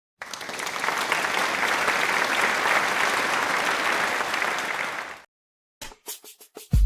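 Applause: an even clapping hiss for about five seconds that fades out, followed by a beat with drum hits near the end.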